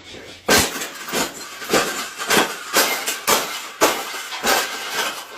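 A bird cage being banged and rattled in repeated sharp knocks, about two a second, each with a short rattling tail.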